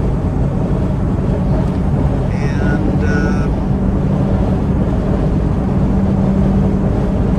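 Cabin noise of a converted ambulance camper at highway speed: steady engine and road drone with a constant hum. Two short high squeaks about two and a half and three seconds in.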